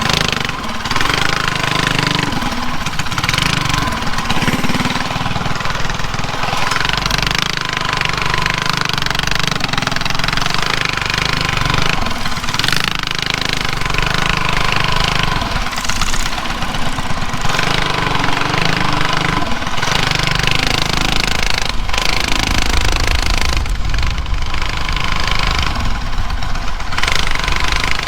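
Drag-racing mini bike's small engine running hard as the bike is ridden, its pitch and level rising and falling with the throttle.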